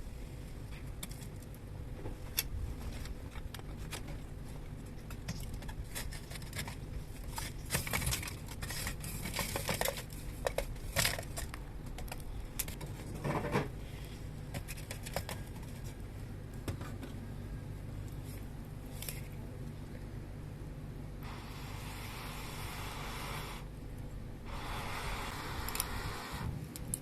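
Handling noises over a steady low rumble. Scattered clicks and scrapes come most thickly about a third of the way in. Near the end there are two stretches of crinkling or tearing hiss, a few seconds each.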